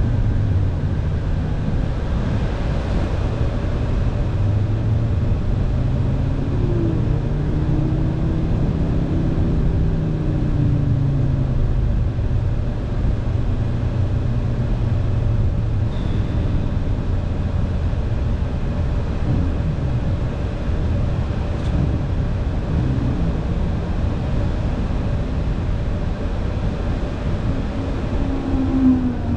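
Car engine running at fairly steady revs with road noise, the engine note drifting gently and rising near the end.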